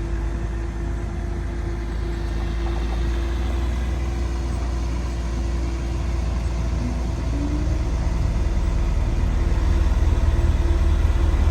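Engine of heavy road-construction machinery running steadily with a deep rumble and a held hum, growing louder over the last few seconds.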